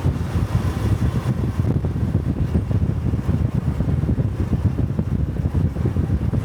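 Honda Cub 125's single-cylinder four-stroke engine running steadily while the motorcycle is ridden, its exhaust note a rapid low pulsing, with wind rushing over the microphone.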